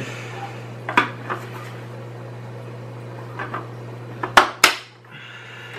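Hard plastic clicks and knocks as hose fittings are pushed into the ports on a SunSun 304B canister filter's lid, with two sharp snaps close together about four and a half seconds in as a fitting seats.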